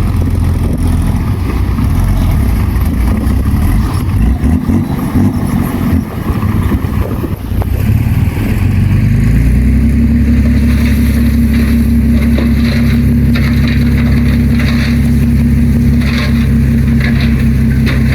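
Heavy equipment's diesel engine running under load, uneven at first, then rising in pitch about halfway through and holding a steady higher speed.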